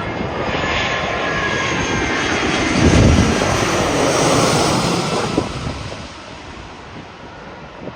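Jet airliner passing overhead, its engine noise building to a peak about three seconds in and then fading away.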